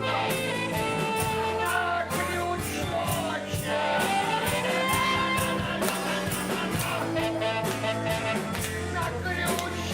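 A live band playing a rock song, with a singer over guitar and a steady drum beat.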